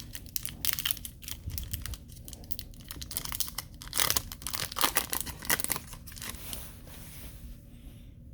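Foil wrapper of a hockey trading-card pack crinkling and tearing as it is ripped open, in a run of irregular crackles, loudest about halfway through.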